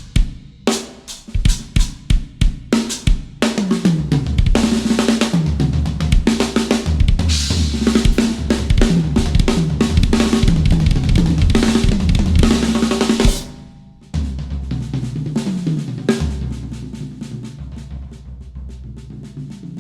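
Acoustic drum kit played solo. For the first few seconds come separate accented hits on bass drum, snare and cymbals; then a fast, unbroken run of fills sweeping down the toms over the bass drum, which stops abruptly about 13 seconds in. Softer, fading playing follows.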